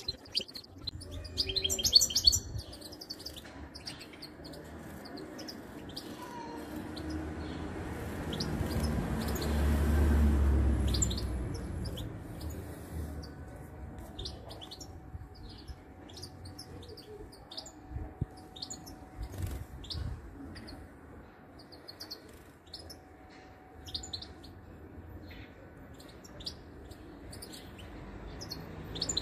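Short, high bird chirps and tweets, scattered on and off, with a quick run of them about two seconds in. A low rumble swells up and fades away again around the middle.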